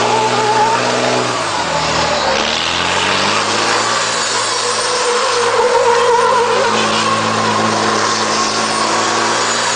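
Truck engine running and revving, its pitch dropping about one and a half seconds in and climbing back a second later, with a dense noisy din over it.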